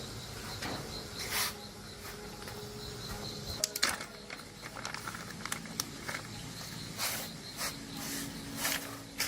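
Scattered light clicks and knocks, a few close together about four seconds in, over a faint steady background hum.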